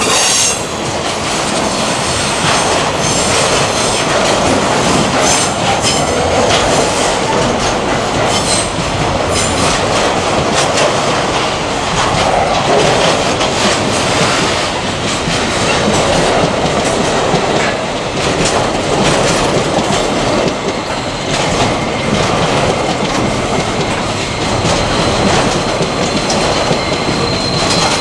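Loaded container freight wagons rolling past at close range: a steady din of steel wheels on rail with repeated clicks over the rail joints. A thin high wheel squeal comes in near the end.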